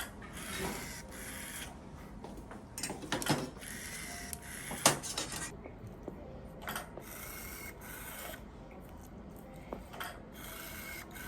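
Faint, irregular rubbing and scraping, broken by a few short sharp clicks; the loudest click comes about five seconds in.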